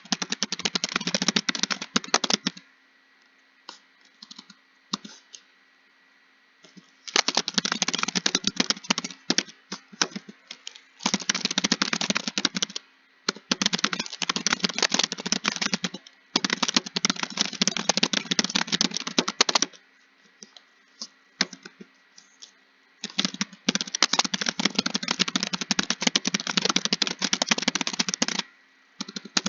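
Fast typing on a computer keyboard: rapid runs of key clicks lasting two to five seconds each, broken by several pauses of a second or more with only a few scattered keystrokes.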